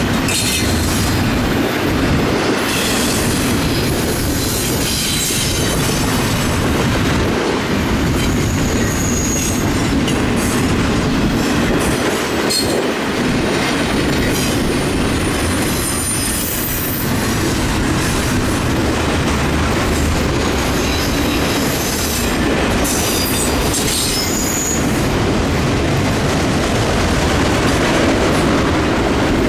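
Freight train cars rolling past on the rails, a steady loud rumble with clacking of the wheels and brief high-pitched wheel squeals scattered through it.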